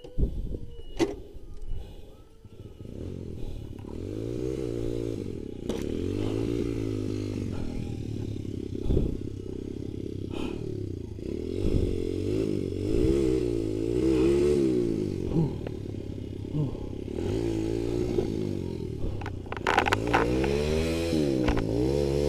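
Dirt bike engine revving up and down again and again as the throttle is worked in short bursts, with scattered knocks and clatter.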